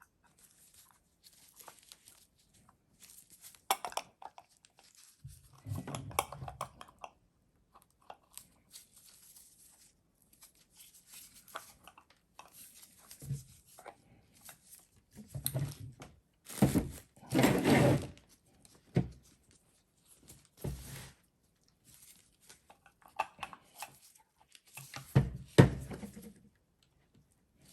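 Intermittent clicks, knocks and scraping from the metal parts of a Toyota Denso starter motor being handled and taken apart by hand. The loudest clatter comes about two-thirds of the way through and again near the end.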